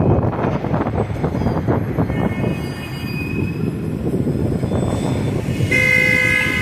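Loud, uneven rumble of city street traffic. About six seconds in, a steady pitched tone with several overtones starts and holds.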